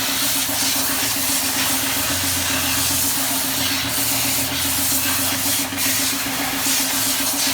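Pressure washer spraying water: a steady hiss from the jet over a constant motor hum.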